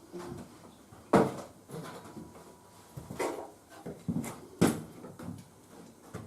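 A series of knocks and clatters from objects being handled, with three louder strikes: about a second in, just past the middle, and near the end.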